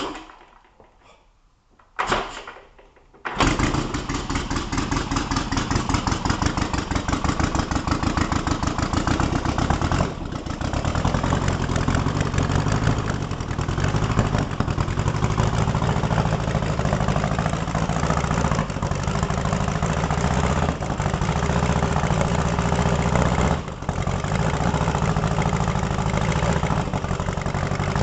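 Air-cooled VW Beetle flat-four boxer engine starting: a couple of clicks, then it catches a little after three seconds and runs steadily at idle.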